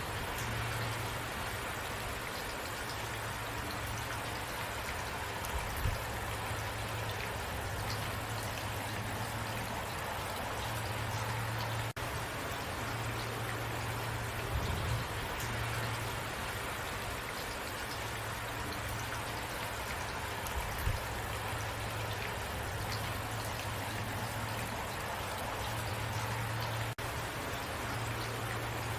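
Steady rain falling, an even hiss over a low rumble, with a few soft low thuds.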